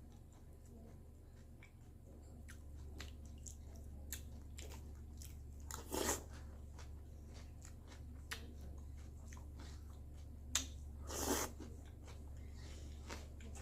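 Close-miked eating of a bowl of cereal: many small crunching clicks of chewing, with two louder crunchy bursts about six and eleven seconds in.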